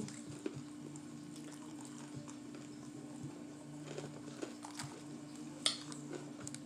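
Quiet room with a steady low electrical hum, broken by a few faint clicks and taps and one sharper click near the end.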